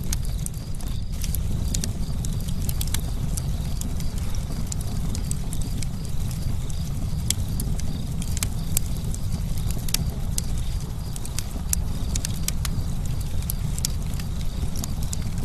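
Campfire crackling: sharp, irregular pops and snaps come thick and fast over a steady low rumble.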